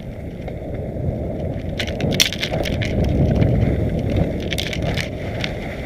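Mountain bike running down a rough dirt trail: a rumble of tyres over dirt and stones, with sharp rattles and clicks from the bike as it hits bumps, loudest in the middle.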